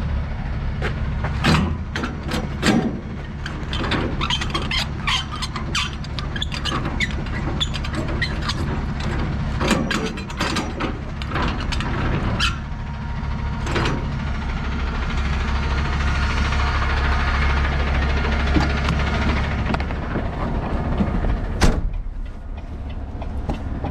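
Semi truck's diesel engine idling, with a run of short metallic clicks and knocks over it for the first half, then a single sharp bang near the end.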